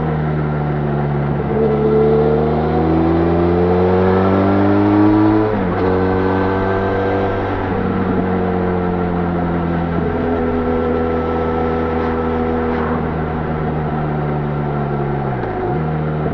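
Benelli Leoncino 500 parallel-twin motorcycle engine through its stock exhaust, pulling under throttle. The note rises for the first few seconds, drops sharply at a gear change about five and a half seconds in, then holds fairly steady. It dips briefly and picks up again near the end.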